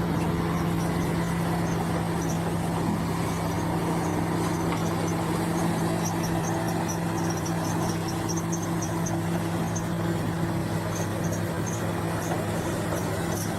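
Bulldozer's diesel engine running steadily at an even pitch, with faint high chirps coming and going over it.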